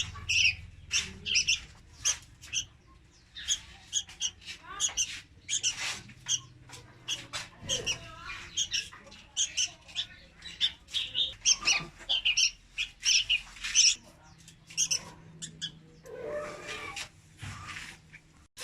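Young red-whiskered bulbul calling: a rapid, continuous run of short, high chirps, with a brief lower, rougher sound about sixteen seconds in.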